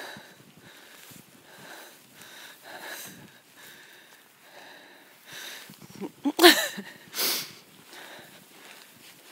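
Animals sniffing and blowing air in repeated soft puffs. About six seconds in comes a loud, short, falling squeal-like call, then a loud snort.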